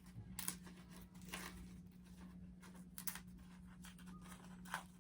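Dried fronto tobacco leaf crinkling and tearing softly as strips are pulled off and laid out. A few faint crackles come over a low steady hum.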